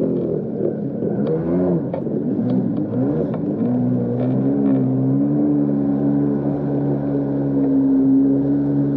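Jet ski engine running, its pitch rising and falling in the first few seconds, then holding at a steady speed from about three and a half seconds in.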